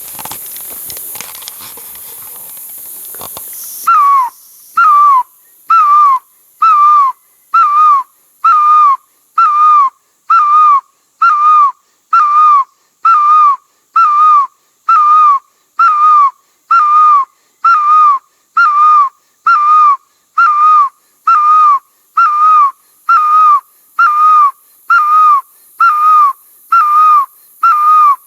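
A loud whistled bird-like call repeated very regularly, a short note that dips slightly in pitch, a little more than once a second. It starts about four seconds in, after a stretch of hiss.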